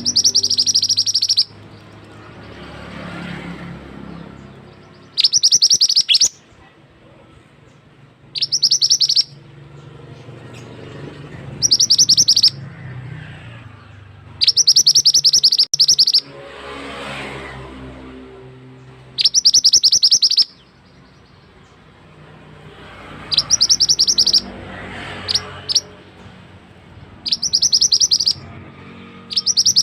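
A mantenan songbird calling in sharp, rapid trilled bursts of high notes, each about a second long and repeated every few seconds. Running water flows steadily in the background.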